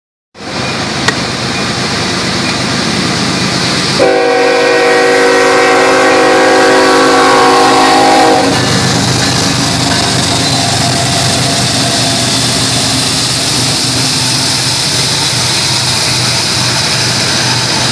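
Norfolk Southern diesel freight locomotive approaching and passing, its air horn blowing one long chord of several notes from about four seconds in for about four seconds as it reaches the grade crossing. Then a steady rumble of hopper cars rolling past on the rails.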